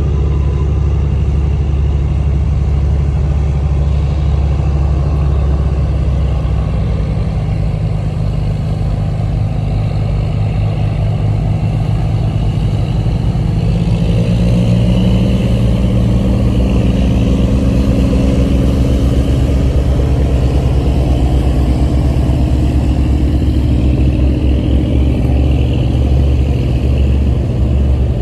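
Squid-fishing boat's diesel engine running steadily under way, its note shifting higher and slightly louder about halfway through.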